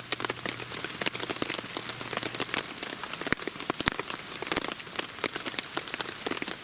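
Rain pattering steadily, a dense stream of small drop ticks.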